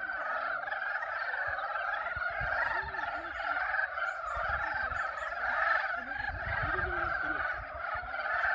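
Mating chorus of many pond frogs calling over one another: a steady warbling din with no pause.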